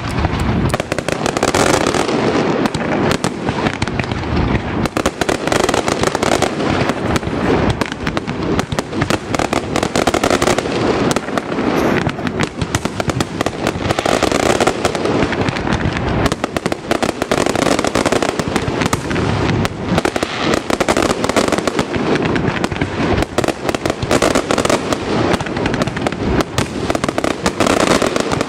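Aerial fireworks display (a Valencian castillo): shells bursting one on top of another in a dense, unbroken barrage of bangs and crackle.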